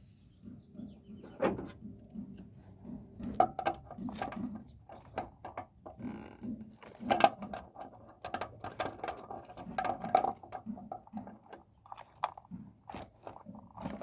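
Irregular metallic clicks and knocks from hand tools and parts being handled during work on a truck's oil pressure sensor.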